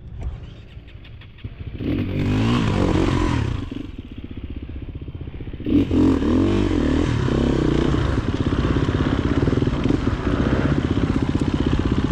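Off-road motorcycle engine under throttle: running low for the first two seconds, revving up about two seconds in, easing off around four seconds, then pulling hard again from about six seconds on with its pitch rising and falling.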